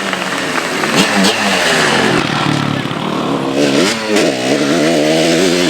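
Motocross bikes racing, their engines revving up and dropping back again and again, with more than one engine heard at once in the second half.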